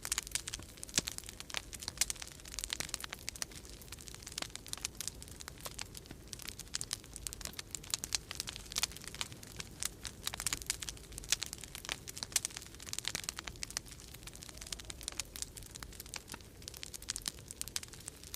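Wood fire in a fireplace crackling with frequent, irregular sharp pops over a low, steady rumble of storm wind.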